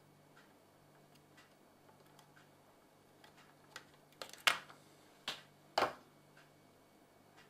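Faint, even ticking about once a second over a steady low hum, with a few louder clicks and clatters a little past the middle.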